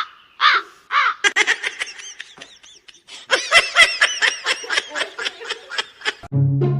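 High-pitched laughter: a few short giggles, then a rapid string of quick laughs, about five or six a second.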